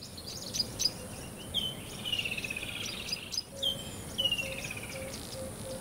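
Songbirds singing: repeated short chirps and several descending trills, over a steady high-pitched hiss. A faint pulsing tone starts about halfway through.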